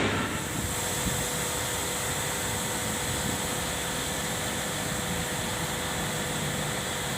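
Steady machine noise: an even hiss with a faint steady tone, unchanging throughout.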